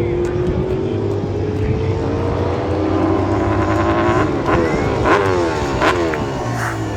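Racing motorcycle engines at high revs passing by. The engine pitch climbs steadily, then several bikes sweep past about two-thirds of the way through, their pitch falling as they go, with a few sharp cracks among them.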